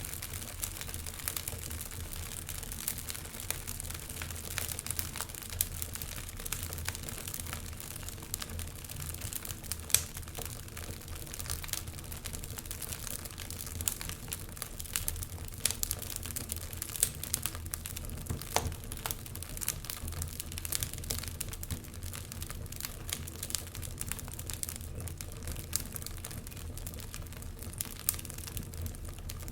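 Wood fire burning in a fireplace: a steady low rumble under frequent small crackles and pops, with one sharper pop about ten seconds in.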